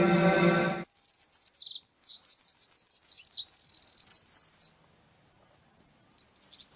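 A small songbird chirping in quick runs of high, downward-sweeping notes. It falls silent for over a second near the end, then starts again. A man's chanted Quran recitation trails off just under a second in.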